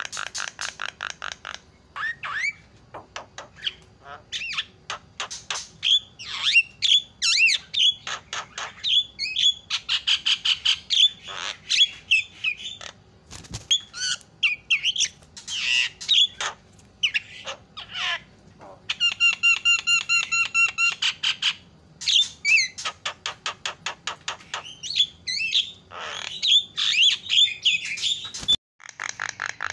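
Javan myna calling: fast runs of harsh, chattering notes mixed with loud whistled notes, in bursts, with a longer buzzy call near the middle.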